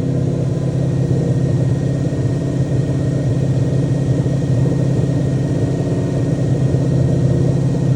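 Lexus LS400's 1UZ-FE 4.0-litre V8 idling steadily through a straight-piped exhaust, shortly after a cold start.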